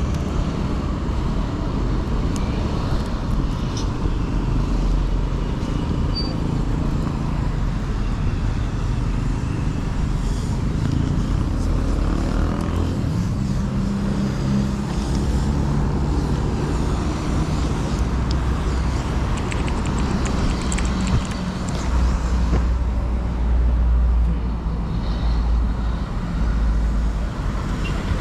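Motorcycle engine running and rising and falling in pitch with the throttle, with wind and traffic noise, heard from a helmet-mounted camera while riding. A heavier low rumble comes in near the end.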